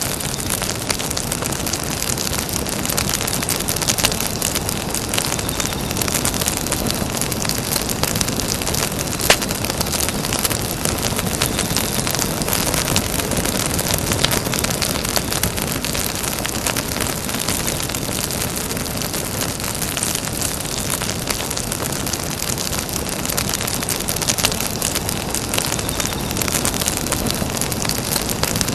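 Campfire burning: a steady hiss of flames with dense crackling and scattered sharp pops, one louder pop about nine seconds in.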